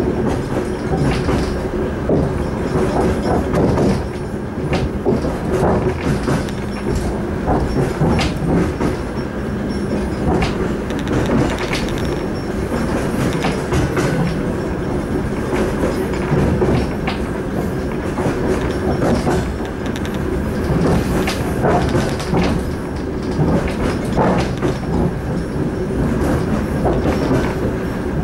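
A suburban train carriage running at speed, heard from inside: a steady rumble of wheels on the rails with a low hum, broken by irregular clicks and clacks as the wheels pass over rail joints.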